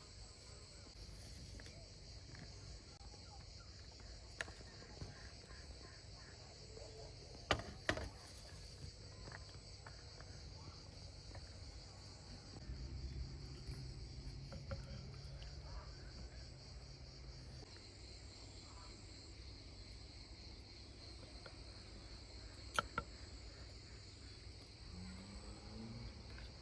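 Steady high-pitched chirring of insects, likely crickets, with a few sharp knocks: two close together about a third of the way in and one more later. A low rumble rises for a few seconds in the middle.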